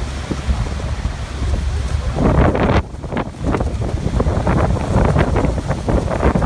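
Wind gusting against the microphone in irregular surges, with a heavy low rumble, over a continuous rush of falling water from a waterfall.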